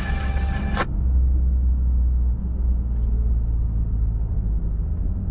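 Steady low rumble of a pickup truck driving, heard from inside the cab. A steady buzzy tone with many overtones cuts off sharply under a second in.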